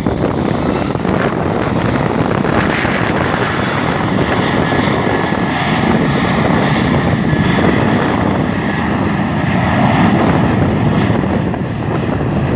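Aircraft engines running loud and steady, with a faint high whine over the noise.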